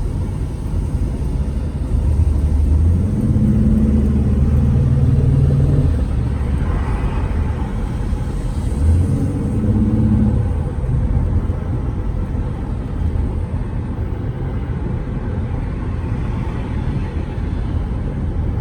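Car driving, heard from inside the cabin: a continuous low rumble of engine and road noise. The engine drone swells for a few seconds about two seconds in and again briefly around ten seconds.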